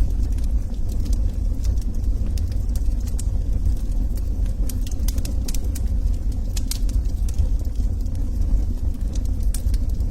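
Log fire burning in a fireplace: a steady low rumble with frequent small, irregular crackles and pops from the burning wood.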